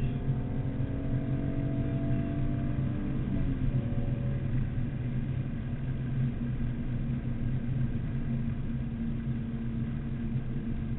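BMW Z4 M Coupe's 3.2-litre straight-six running at speed, heard inside the cabin over road and wind noise. The engine note climbs slowly, drops once about three and a half seconds in, then holds steady.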